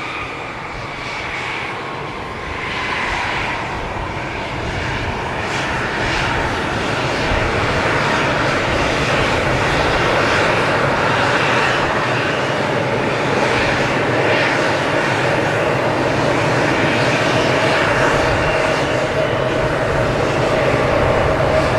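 Jet engines of an Embraer E170 taxiing, a steady turbofan whine and rumble that grows louder over the first half, then holds level.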